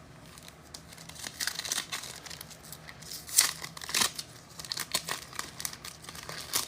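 Foil trading-card pack wrapper being torn open and crinkled, a run of irregular crackles and rustles as the cards are pulled out.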